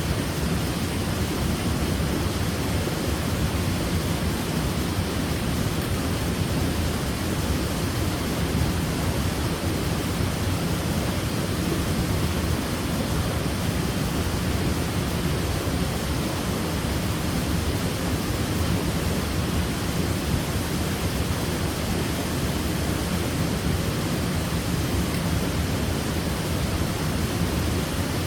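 Waterfall: water falling and splashing with a steady, unbroken roar, heaviest in the low range.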